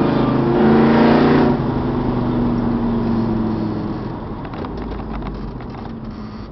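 A 383 stroker V8 in a 1967 Dodge Dart drag car running as the car drives, loudest in the first second and a half, then easing off and growing steadily quieter.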